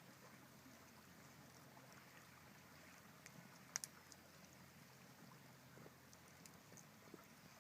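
Quiet campfire crackling: scattered sharp pops and ticks of burning wood over a faint hiss, with a close pair of louder pops a little under four seconds in.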